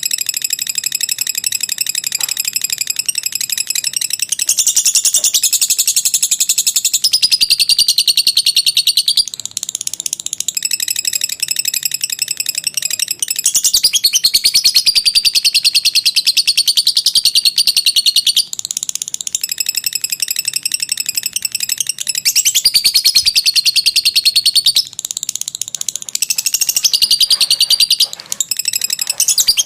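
Lovebird's long 'ngekek' chatter: a very fast, high-pitched trill held for several seconds at a time, in long phrases with brief pauses between them.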